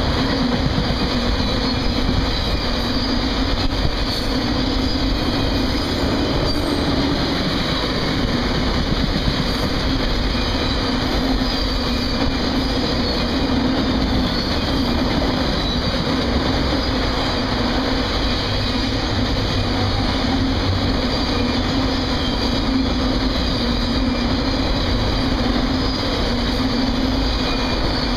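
Freight train of autorack cars rolling steadily past: a continuous rumble of steel wheels on the rails, with a steady low hum throughout.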